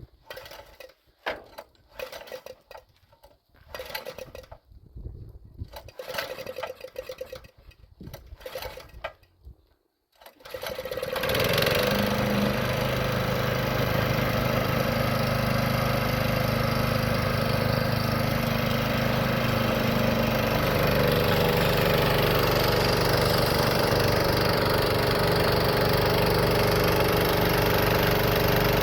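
Scattered quiet knocks and handling sounds, then about eleven seconds in an engine starts and keeps running steadily at idle.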